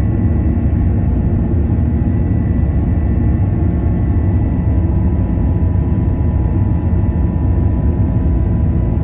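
Airbus A330 jet engines running at go-around thrust: a steady, heavy rumble with a faint constant whine.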